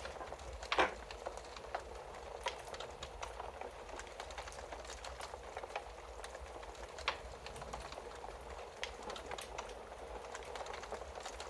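Wood fire crackling in a fireplace: a steady hiss with many small snaps, and louder pops about a second in and again about seven seconds in.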